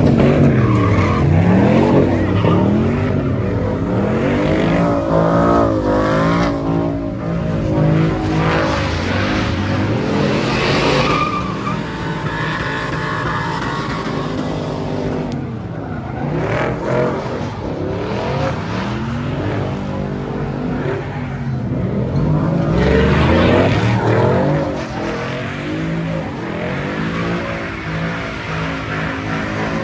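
Car engines revving up and down repeatedly, several at once, with the pitch rising and falling over a few seconds at a time.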